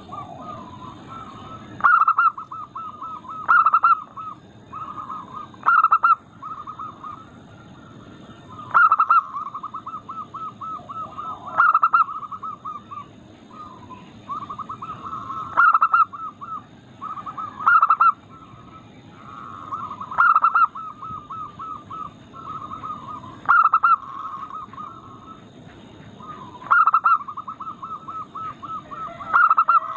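Zebra doves (perkutut) cooing in quick runs of rippling notes at one pitch. Every two to three seconds a short, louder call breaks in.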